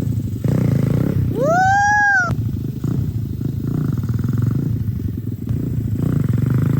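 Tao Tao pit bike's small engine running with a steady low putter. About a second and a half in, a person's voice gives a brief high call that rises and falls in pitch.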